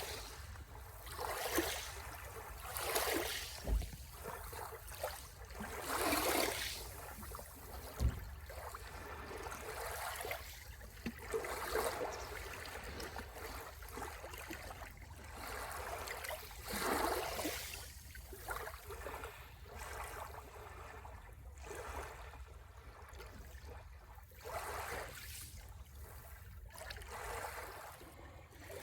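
Small sea waves breaking and washing onto the shore, the surf swelling and fading every couple of seconds. Two brief low thumps come about four and eight seconds in.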